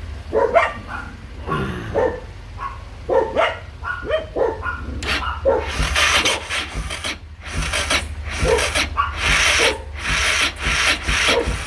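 Yamaha XT600E's single-cylinder four-stroke engine being turned over heavily without firing: irregular scraping and squeaking at first, then from about halfway a rhythmic hissing chuff about twice a second.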